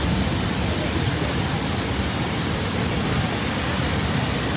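Big Sioux River in flood pouring over the falls: a loud, steady rush of water.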